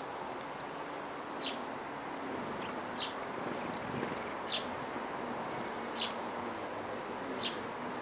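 A bird's short, high call repeated five times, about every second and a half, over steady background noise.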